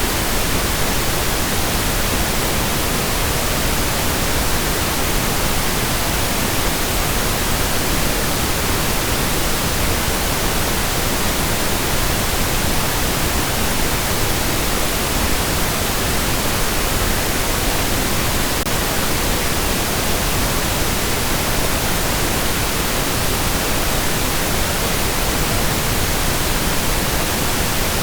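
Steady pink noise: an even, unchanging hiss that spreads across the whole frequency range, with no tones or events.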